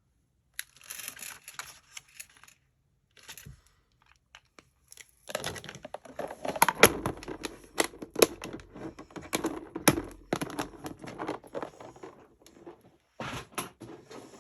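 Paper and card stock being handled: rustling and crinkling with sharp taps and clicks, sparse at first and busier from about five seconds in.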